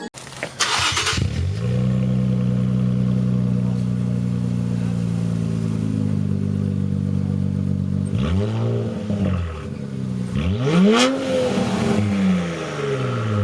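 Infiniti Q50 3.0t twin-turbo V6 starting up with a short loud flare, settling into a steady idle, then revved three times in quick blips near the end, each rising and falling back to idle.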